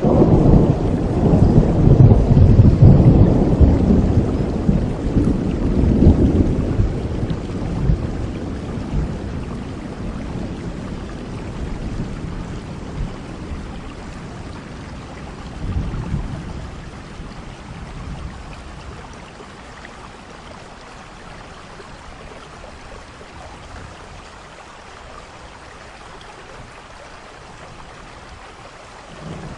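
Thunder rolling over steady rain: a long, loud low rumble at the start that dies away over about ten seconds, a shorter, fainter rumble about halfway through, then the rain alone.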